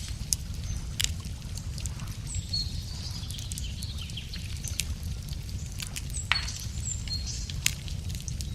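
Wood fire crackling, with scattered sharp pops over a steady low rumble, while birds sing short high chirping notes.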